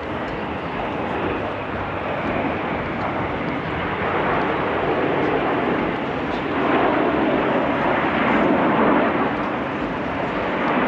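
Loud, steady roar of an aircraft flying over, with no clear engine note, swelling to its loudest a little after halfway.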